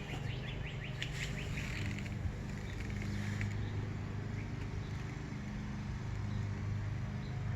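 A bird chirping in a quick run of short, high notes over the first two seconds, then a few scattered fainter notes.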